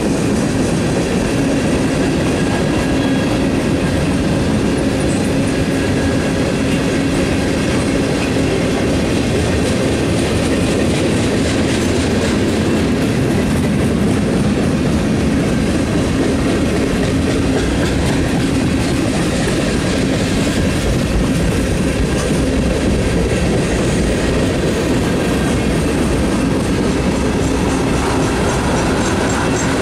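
Mixed freight train cars (tank cars, covered hoppers and boxcars) rolling past at close range, their steel wheels on the rails making a steady, loud rumble and clatter.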